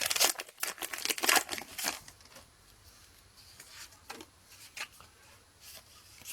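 Foil booster-pack wrapper crinkling and trading cards being handled, a dense rustle for the first two seconds, then only a few soft rustles and light clicks.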